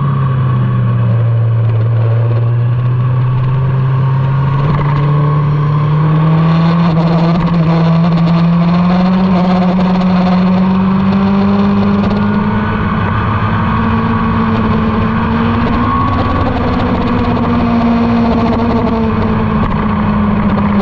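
Motorcycle engine running under load at a track day. Its note drops over the first two seconds or so, then climbs slowly and steadily through the rest.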